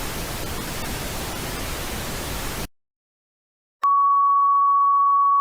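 Steady static hiss that cuts off abruptly into silence. About a second later a single steady electronic tone near 1 kHz starts and holds.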